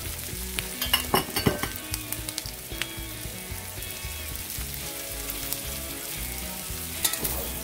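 Pork, onions, bell pepper and freshly added carrots sizzling in hot oil in a wok, a steady frying hiss. A few sharp clicks sound about a second in and again near the end.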